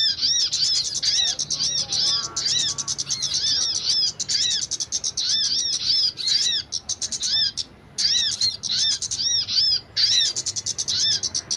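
Small bird chirping rapidly, a long run of quick high-pitched chirps that each rise and fall, several a second, with brief pauses about two-thirds of the way through.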